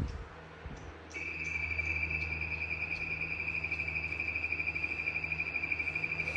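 Toshiba electric fan's built-in cricket sound playing: an electronic imitation of a field cricket, a steady high trill that starts about a second in. A low steady hum lies beneath it.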